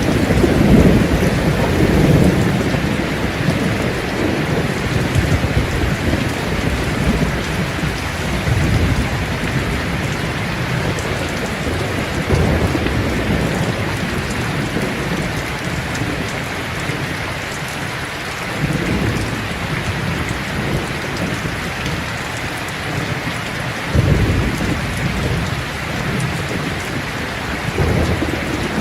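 Steady heavy rain with rolling thunder, the low rumbles swelling at the start and again about two-thirds and four-fifths of the way through.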